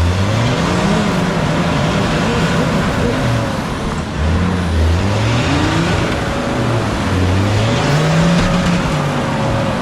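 Off-road 4x4 truck's engine revving up and down repeatedly under load while the truck is stuck on the climb, with a steady higher whine over it in the second half.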